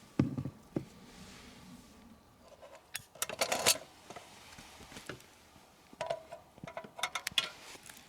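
Metal cookware being handled: scattered knocks, then two bursts of rattling clinks, about three seconds in and again around six seconds.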